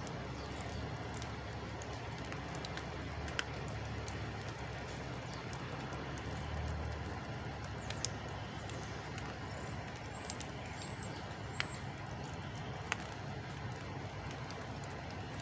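Outdoor background noise: a steady low rumble with a few sharp clicks, and some faint high bird chirps about two-thirds of the way through.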